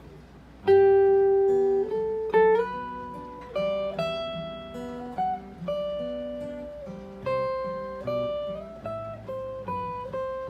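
Acoustic guitar playing the song's introduction: plucked notes and chords struck one after another, each ringing and fading, starting about a second in.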